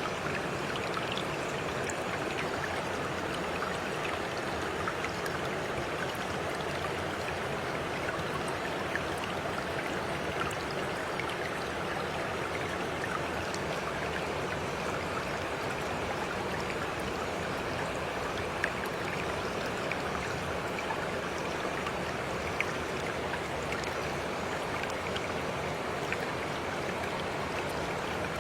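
Running water of a stream flowing steadily, an even rush dotted with small splashes and droplet ticks.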